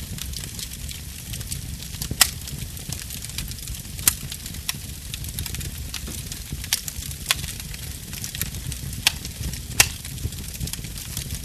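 Wood fire burning with a steady low rumble and hiss of flames, broken by sharp crackling pops of burning wood every second or two; the loudest pops come about two seconds in and near the end.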